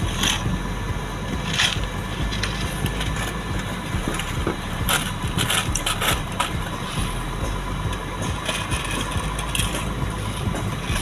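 Road-paving machinery's diesel engine running steadily, with irregular short, sharp sounds on top every second or two.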